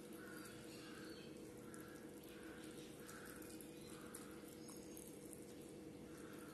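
Faint eating sounds: wet chewing, lip smacks and small mouth clicks as fish is eaten by hand, over a steady low hum. A soft regular pulsing about twice a second sits in the background.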